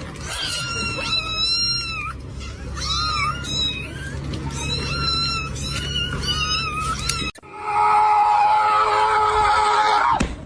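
Cat meowing over and over in short, high, wavering calls. After a sudden break about seven seconds in comes one louder, long, held call.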